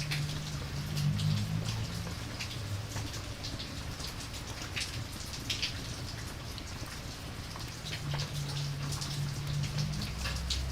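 Steady rainfall, with many scattered sharp drop ticks over an even hiss and a low rumble underneath that is strongest near the start and again near the end.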